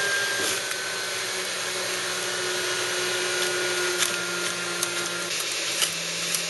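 Electric juicer's motor running steadily as spinach is fed in and ground, with a few sharp clicks in the second half.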